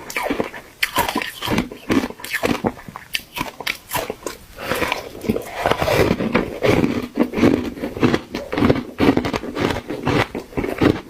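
Someone biting and chewing refrozen ice, a dense, irregular run of soft crunches that grows busier in the second half.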